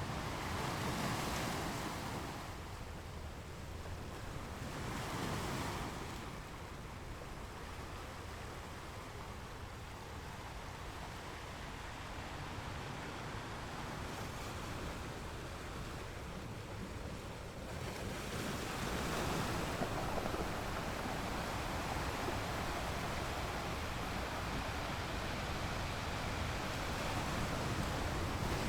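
Ocean waves breaking on beach rocks, the surf rising in surges about a second in and again about five seconds in, then swelling into steadier, louder wash from about eighteen seconds on. Wind noise on the microphone runs under it.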